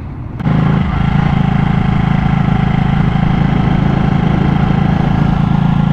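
Ducati motorcycle engine running at a steady pitch, coming in suddenly about half a second in.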